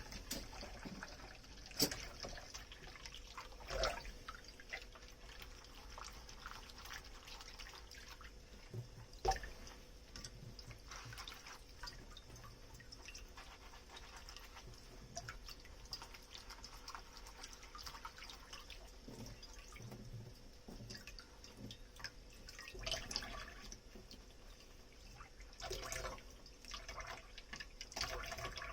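Dishes being hand-washed at a kitchen sink: water dripping and trickling, with a few sharp knocks of dishware and a busier patch of handling near the end.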